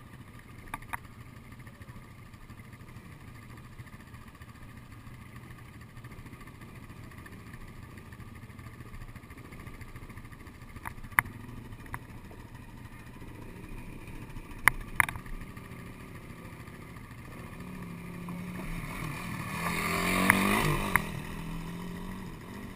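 Dirt bike engine ticking over steadily, with a few sharp knocks from the wooden planks. Near the end the revs rise and it gets louder for a couple of seconds, then drop back.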